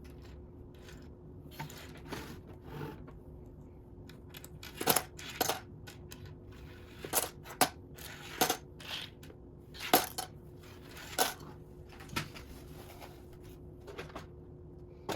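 Loose plastic Lego bricks clacking and rattling as a hand sifts through a pile of pieces: irregular sharp clicks, a couple of dozen over the span, some louder clatters among them.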